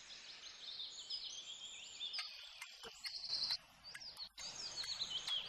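Faint birdsong ambience: small birds chirping in quick, repeated high notes, with a few faint ticks in the middle.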